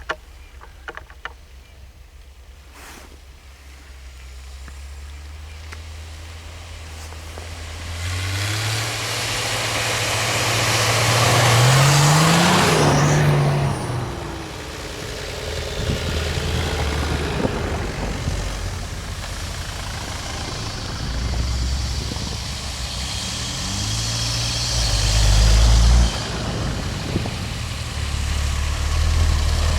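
Off-road 4x4's engine running and being revved hard. The pitch climbs to a loud peak about twelve seconds in and again about twenty-five seconds in, with a broad rushing noise over the first peak.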